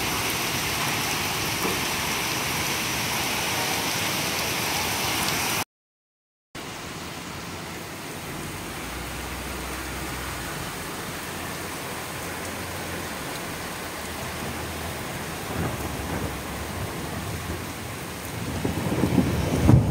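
Hail storm: heavy rain and hail pouring onto trees and a street, a steady hiss. It drops to dead silence for under a second about six seconds in, then comes back softer, and a low rumble builds near the end.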